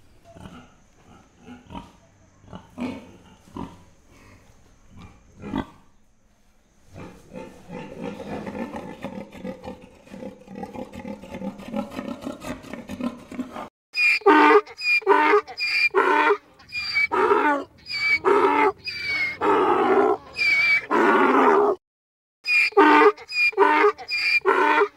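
A pig grunting in short separate bursts for the first few seconds. Then, after a brief pause, a donkey braying: a wheezy build-up followed by loud, repeated hee-haw calls with one short break near the end.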